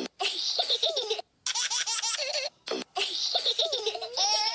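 High-pitched laughter, like a baby's, coming in repeated bursts about a second long with short gaps between them.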